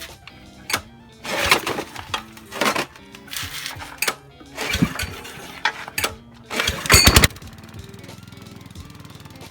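Mitsubishi G710L small engine running unevenly, with loud irregular surges over the first seven seconds, then settling to a steady, even run for the last couple of seconds. Background music plays throughout.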